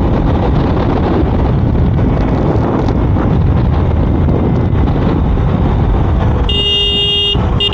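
Steady ride noise from a moving motorcycle, a loud low rumble of wind and engine. About six and a half seconds in, a vehicle horn honks for about a second, then gives a short second toot.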